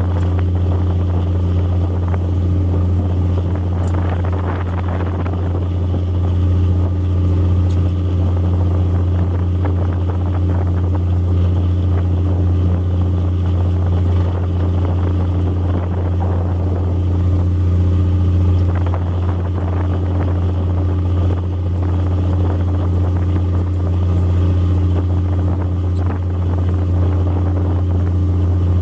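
A squid fishing boat's engine running steadily at an even speed, a deep constant hum with no change in pitch.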